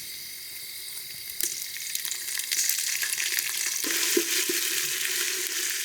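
Onions and whole spices frying in hot oil in a pan, sizzling and being stirred, with a few clicks of the spoon against the pan. The sizzle swells about a second and a half in, as ginger-garlic paste goes into the oil.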